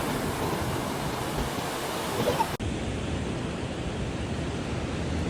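Steady rush of ocean surf mixed with wind on the microphone. The noise changes abruptly and loses its top end about two and a half seconds in.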